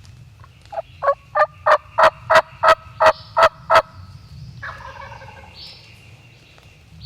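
A run of about ten wild turkey yelps, about three a second and growing louder, followed a second later by a fainter, lower turkey call with falling pitch that lasts about a second.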